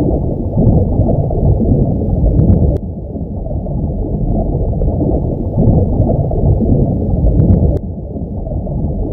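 Low, muffled rumbling ambient drone with no melody. It swells and then drops abruptly about every five seconds, near the third second and again near the eighth, like a repeating loop.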